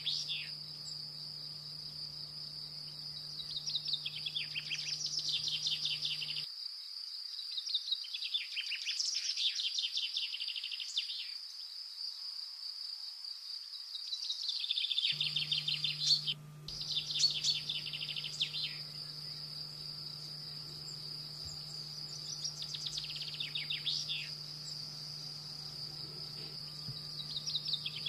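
Canaries singing in short, fast trilled phrases every few seconds, over a continuous high-pitched whine.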